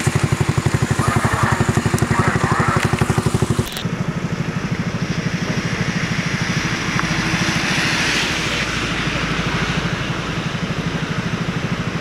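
Vehicle engine idling close by, with an even, rapid pulse. About four seconds in it drops abruptly and carries on softer under a light hiss of traffic.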